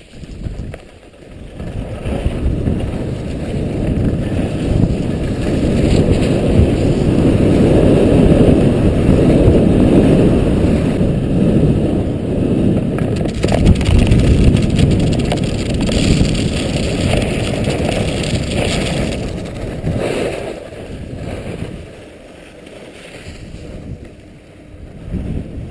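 Skis running fast on snow, with wind buffeting the microphone during a downhill run. The noise builds over the first few seconds, is loudest through the middle and dies down near the end as the skier slows.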